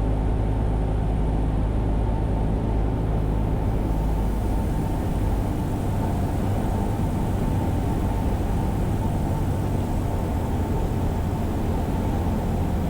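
Cessna 172's four-cylinder piston engine and propeller droning steadily in the cabin, its tone shifting slightly about five seconds in.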